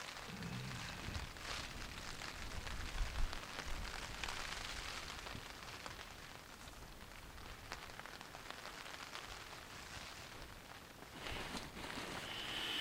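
Steady rain falling, an even hiss of drops, with a low rumble in the first few seconds.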